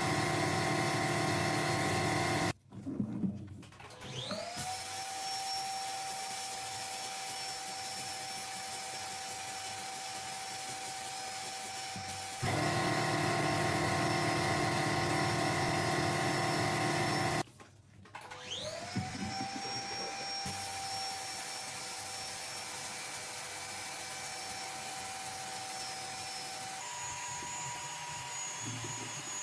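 A small electric power tool's motor running steadily. Twice it spins up with a rising whine and settles to a steady pitch, and between these there are louder, rougher stretches.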